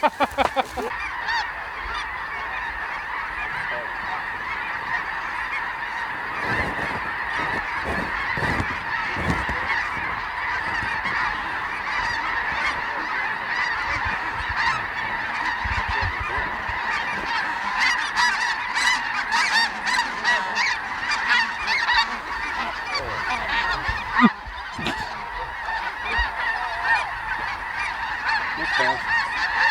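A large flock of snow geese calling continuously, a dense steady chorus of honks, with a brief sharp knock late on.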